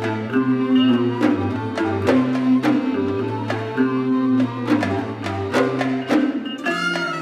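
Bahraini sawt ensemble music: sharp hand-drum strokes over held low notes and a melody line. Near the end the low notes drop away and a brighter, higher-pitched string texture takes over.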